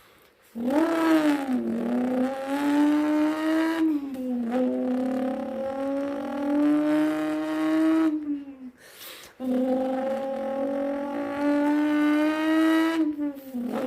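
A person imitating a V10 supercar engine with their mouth: a buzzing, humming vocal drone held in three long pulls, each creeping slowly up in pitch like an engine winding up through a gear, with short breaks between them.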